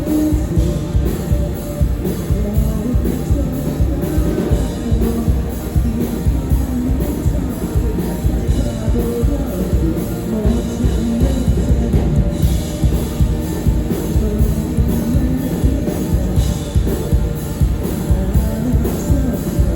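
Live rock band playing loud and steady: drum kit driving a regular beat under guitars and bass.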